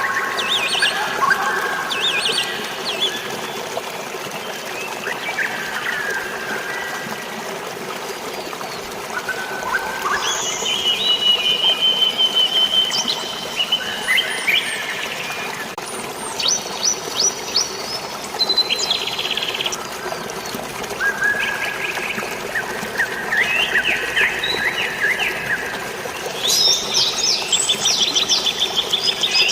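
Several birds chirping and trilling, with quick runs of repeated notes now and then, over a steady hiss of rain and falling water.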